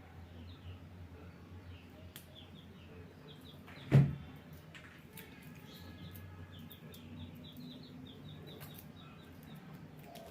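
Faint bird chirps over a low background hum, with one sharp knock about four seconds in.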